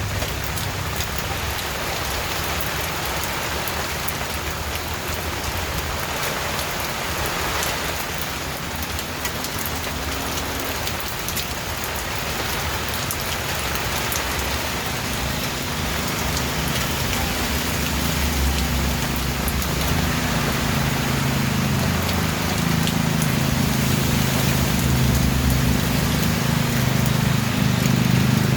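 Steady rain falling, a dense even hiss. About halfway through, a low rumble builds underneath and grows louder toward the end.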